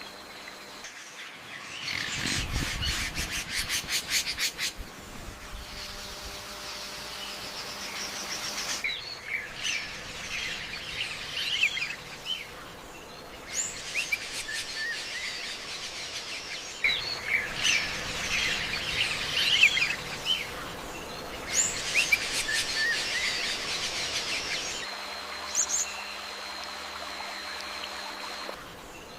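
Birds chirping and calling in short, sharp notes, in several stretches that start and stop abruptly. About two seconds in there is a quick run of evenly spaced ticks.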